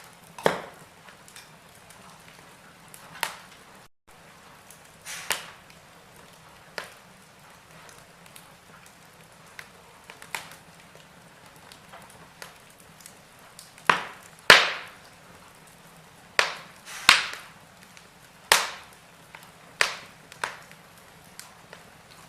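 Wood fire in a fireplace crackling: about a dozen sharp, irregular pops over a faint steady hiss, the loudest ones in the second half.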